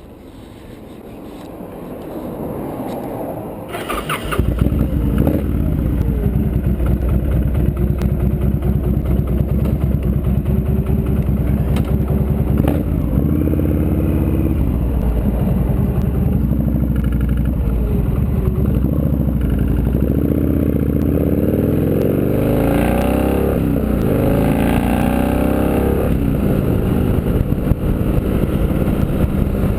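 Victory V92C cruiser's 92-cubic-inch V-twin engine. It comes up suddenly about four seconds in, then runs steadily while riding, with several rising revs as the bike accelerates through the gears.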